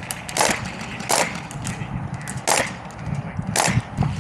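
Airsoft fire: four loud single sharp cracks at irregular intervals about a second apart, with fainter clicks between them, over a steady low rumble.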